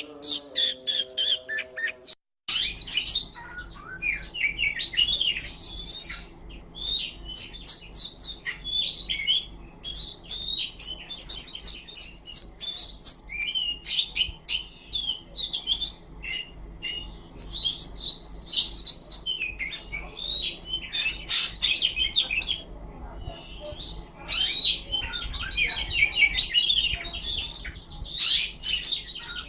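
Oriental magpie-robin (kacer) singing a loud, varied, nearly unbroken stream of whistles, trills and chirps. A short bit of music ends abruptly about two seconds in. A faint steady low hum runs underneath the song.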